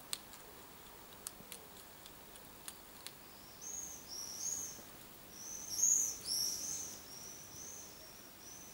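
A few sharp clicks in the first three seconds as a hedgehog crunches dry hedgehog food pellets. From about three and a half seconds in, a bird calls with a string of short, arching high chirps, loudest around the six-second mark.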